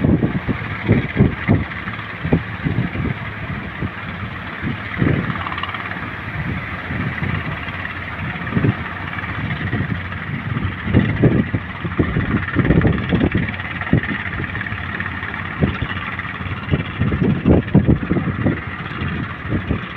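Heavy ocean surf roaring steadily, with strong wind buffeting the microphone in irregular low thumps.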